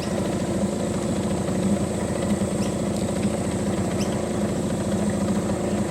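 Small boat's outboard motor running steadily at low speed, a fast even putter.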